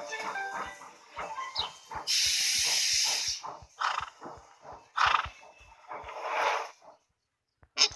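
Cartoon animal calls over a steady clicking beat of about four ticks a second. A loud hiss comes about two seconds in and lasts just over a second, then three animal calls follow, the last and longest around six seconds in, before the sound cuts to silence near the end.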